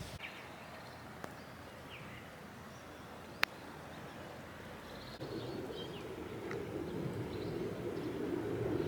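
Faint outdoor ambience with a few short, high bird chirps, a single sharp click about three and a half seconds in, and a low rumble that comes up about halfway through and slowly grows louder.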